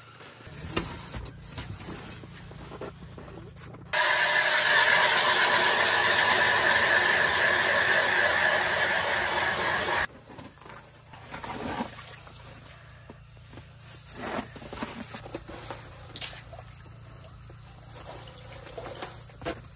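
A loud steady hiss, like rushing gas or air, starting abruptly about four seconds in and cutting off about six seconds later, between quieter rustling and handling noises.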